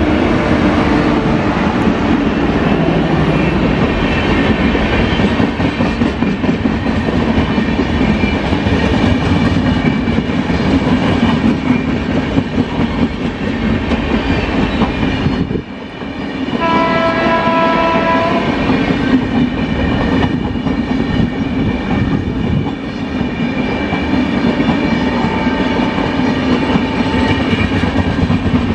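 Passenger train hauled by a WAG-9 electric locomotive running past, its wheels rolling steadily over the rails. Its horn sounds as a chord for about two seconds a little past halfway, and a fainter horn tone sounds near the end.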